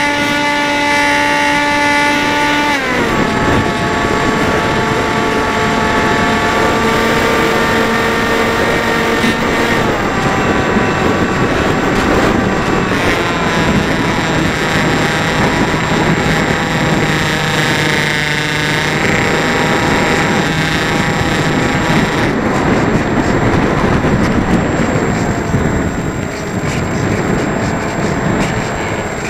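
Electric motor and propeller of a Dynam Hawk Sky RC plane whining over a rush of wind. The pitch drops sharply about three seconds in as the throttle is cut back, then rises and falls several times as the plane is flown.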